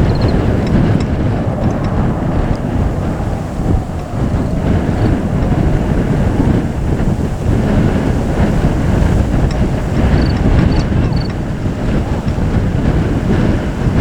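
Jet airliner engines making a loud, steady low rumble, with wind buffeting the microphone.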